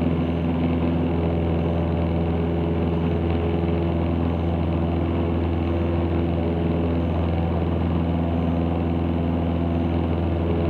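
Cessna 162 Skycatcher's four-cylinder Continental O-200 engine and propeller running steadily, a constant drone heard from inside the cockpit.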